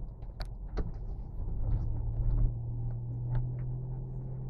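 Low rumble from a running motor, with a steady low hum that sets in about a second and a half in and a few faint clicks and knocks.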